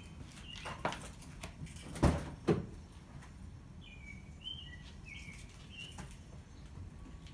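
Several short bird chirps over faint background noise, with two sharp knocks about two seconds in, half a second apart, and a few fainter clicks.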